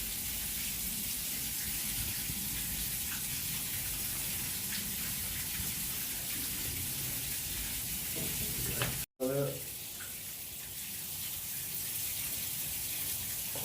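Water running out steadily as a well's pressure tank drains through a broken fitting.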